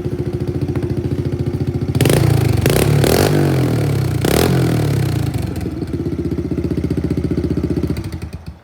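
2013 Kawasaki 110 single-cylinder four-stroke dirt bike engine idling, revved with several quick throttle blips about two to four seconds in, settling back to idle, then shut off near the end.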